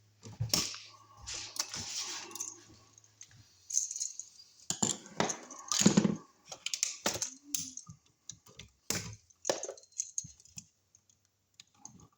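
A cordless screw gun driving the mounting screws of wall receptacles into their electrical boxes, in short runs, amid irregular clicks and clatter from handling the receptacles and screws.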